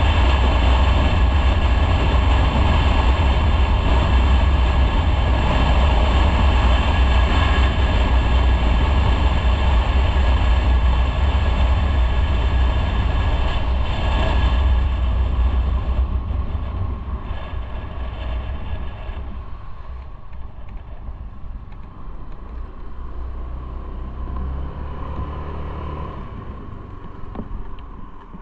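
Motorcycle riding along: steady wind rumble on the microphone with engine and road noise, which drops to a quieter level about sixteen seconds in.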